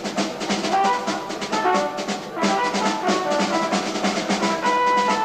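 Live progressive rock band playing on an amateur concert tape: a busy drum kit with held melody notes coming in about a second in.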